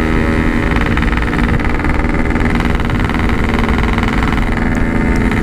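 Yamaha RX-King's 135 cc two-stroke single-cylinder engine running at a steady engine speed, its pitch holding level.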